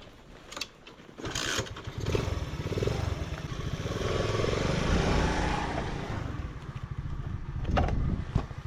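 A small motorcycle engine starts about a second in and runs with a steady pulse, growing louder towards the middle and easing a little near the end.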